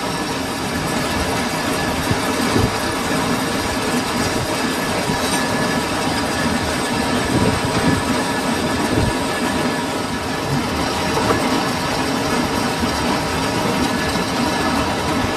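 Metal lathe running steadily, a continuous mechanical din with several faint steady tones and scattered low knocks.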